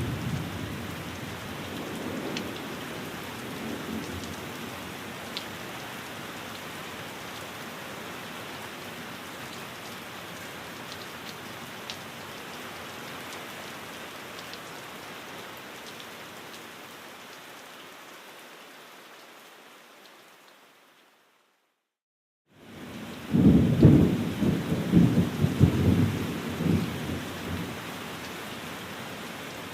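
Steady rain hiss with low rolls of thunder near the start and again after about 23 seconds. About two-thirds in, the sound fades to silence for a second or so, then returns with the thunder.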